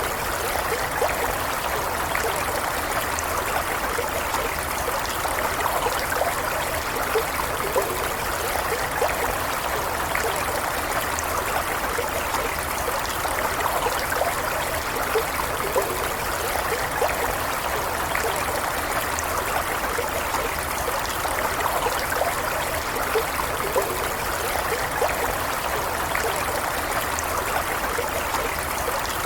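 Stream of gently flowing running water, a steady, even rush with small splashes scattered through it.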